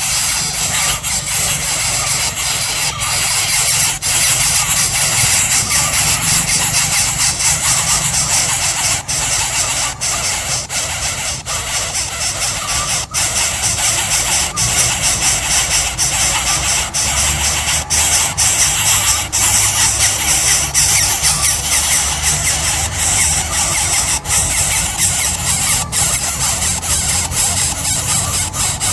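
Baby coucal chick begging for food: a fast, unbroken run of shrill squeals.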